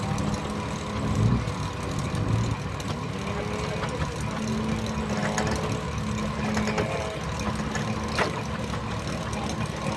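1926 Keck Gonnerman steam traction engine running steadily on the belt driving a sawmill, a low rumble with a few faint knocks.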